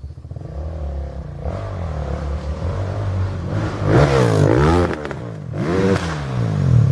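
Kawasaki KX450F four-stroke single-cylinder dirt bike engine running under hard throttle, building up and then revving sharply up and down twice in the second half.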